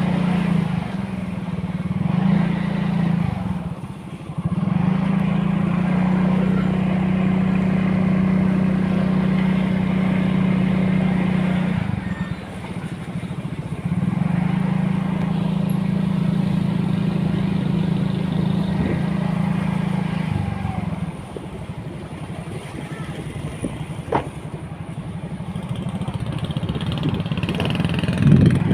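A vehicle's engine running at a steady pitch, dropping away several times as the throttle eases and coming back. There is a single sharp click near the end.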